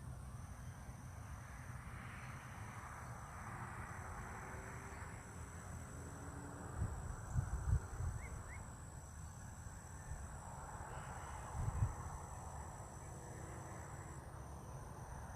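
Outdoor wetland ambience: insects trilling steadily at a high pitch. Low rumbles of wind on the microphone come twice, about halfway through and again a little later.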